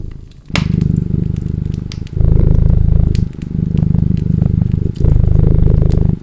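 A cat purring close up, a fast low rumble that breaks briefly between breaths about every second or so. Over it a wood fire crackles with scattered sharp pops.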